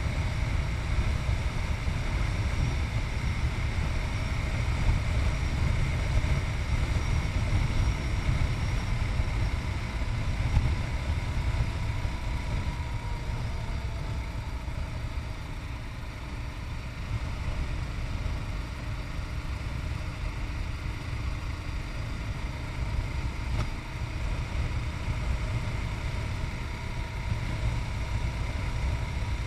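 Yamaha MT-03's 660 cc single-cylinder engine running while the motorcycle is ridden, under a heavy low wind rumble on the chest-mounted camera's microphone. It gets a little quieter for a few seconds past the middle.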